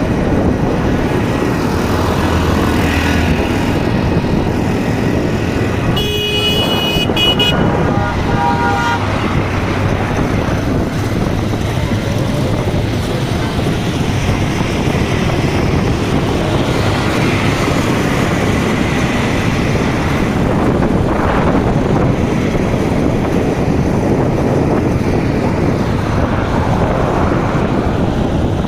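Steady road traffic noise, with a vehicle horn honking about six seconds in and again briefly just after.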